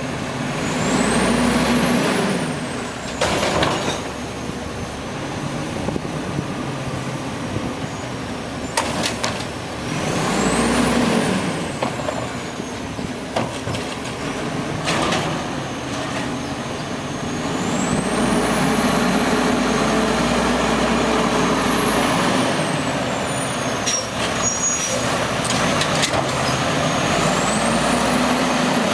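Automated side-load garbage truck at work: the engine revs up and falls back about four times, one long rev in the middle, as it drives the hydraulic lift arm, with short sharp bangs and hisses in between.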